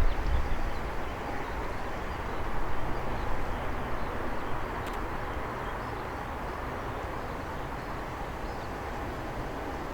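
An ATR 72-600 turboprop taking off, its engines and propellers making a steady noisy drone that fades over the first few seconds as it moves away, then holds at a lower level. Gusty wind rumbles on the microphone.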